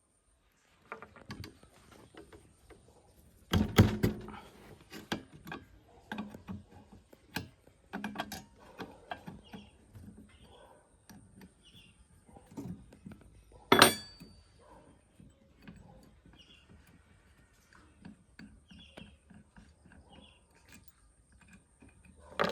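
Metal parts and hand tools being handled and knocked against one another, with scattered clicks and clanks. There are two loud hits, one about four seconds in and a sharper one near fourteen seconds that rings briefly.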